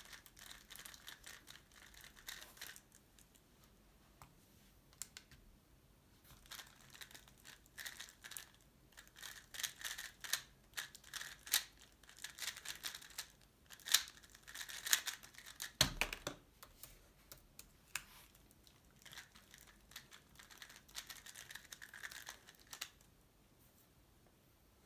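Tornado V3 Pioneer 3x3 speedcube being turned fast: rapid plastic clicking and clacking of the layers in dense runs, with a single thump about two-thirds of the way through.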